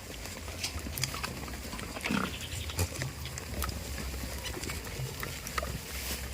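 Farm goats making low animal sounds, with one short call about two seconds in among scattered light clicks and rustling.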